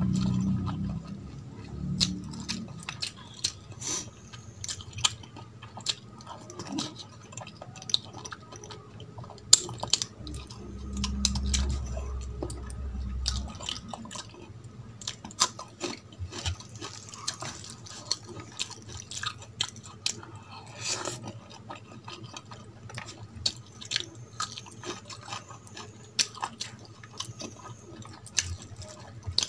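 Close-miked chewing and wet mouth sounds of someone eating rice and curry by hand, with many small irregular clicks, and fingers squishing rice on a steel plate. A low rumble comes in for a few seconds around the middle.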